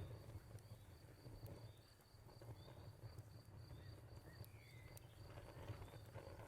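Wood fire crackling faintly with a few sharp pops over a low steady rumble, while a cricket chirps steadily in an even rhythm of about three chirps a second.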